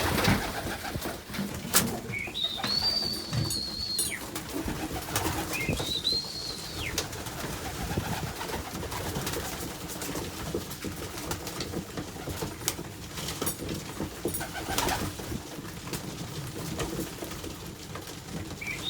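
Loft of tippler pigeons cooing, with scattered light clicks of birds pecking at feed. A high, drawn-out squeaky note sounds twice in the first seven seconds and again at the very end.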